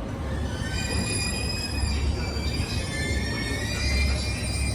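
Electric train running through the station, with a steady low rumble and several high-pitched tones that drift slowly in pitch.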